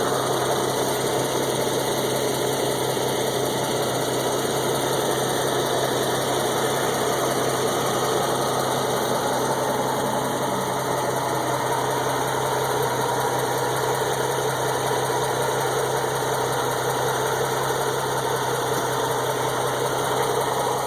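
Car engine idling steadily with a ticking from an exhaust leak: a partly disintegrated gasket at the aftermarket high-flow catalytic converters leaves a small gap for exhaust gas to escape.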